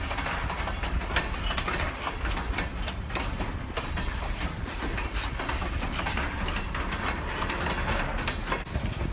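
A train running past: a steady low rumble with many small clicks throughout.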